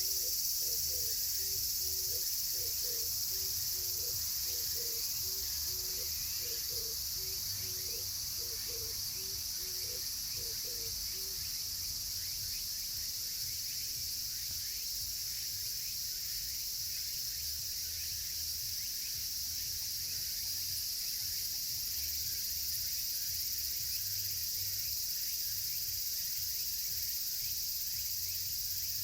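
Cicadas buzzing in a steady, unbroken chorus, with a low rumble underneath.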